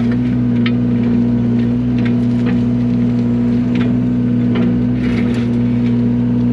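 Yanmar mini excavator's diesel engine running steadily while it works a tilting grading bucket, with short clicks and scrapes scattered through it as the bucket works gravel.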